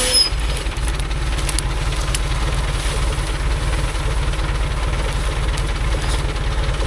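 A logging truck's engine running steadily at low revs, with no revving during these seconds.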